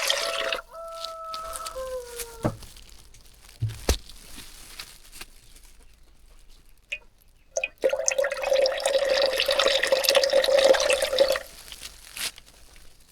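Water poured from a plastic container into a pot, splashing for a moment at the start and again for about three and a half seconds from about 8 s in. A rooster crows once just after the start, a held call that drops off at the end.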